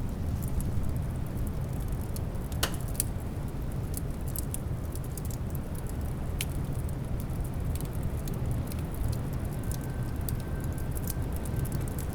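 Wood fire crackling, with scattered sharp pops and one louder pop a few seconds in, over a steady low rumble of snowstorm wind. A faint thin whistle comes in near the end.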